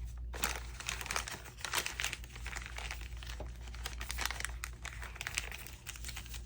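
Paper crinkling and rustling in irregular bursts as handmade journal pages and a hinged bag pocket are handled.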